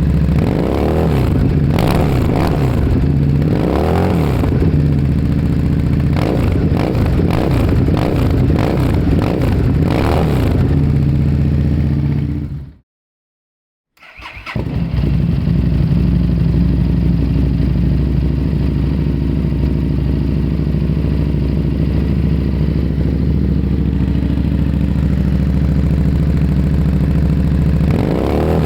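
Harley-Davidson Street Rod V-twin running through its exhaust, blipped to rev several times over its idle. The sound then cuts out completely for about a second, and it comes back settled into a steady idle, with another rev starting near the end.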